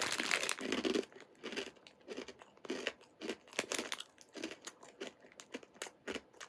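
Chewing a mouthful of Smith's Scampi Fries, a crunchy cereal snack: a dense burst of crunching in the first second, then sharp crunches a few times a second.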